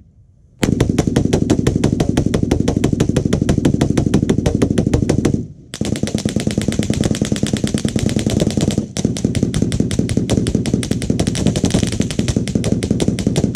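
Full-auto machine-gun fire in three long sustained bursts of rapid, evenly spaced shots, with short pauses between them.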